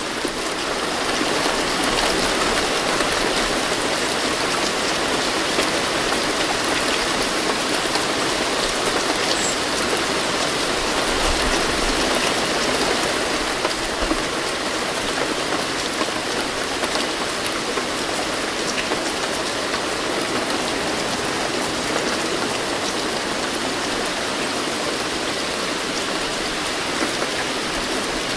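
Steady rain falling: an even hiss of rainfall with scattered ticks of single drops.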